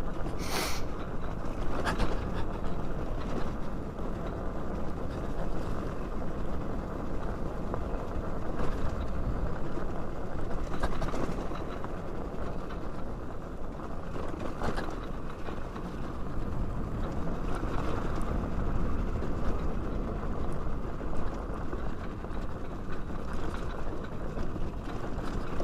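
Yamaha YZ450F dirt bike moving over a dirt trail with its engine dead from running out of gas: a steady rumbling noise of tyres on dirt and gravel, with a few sharp knocks and rattles.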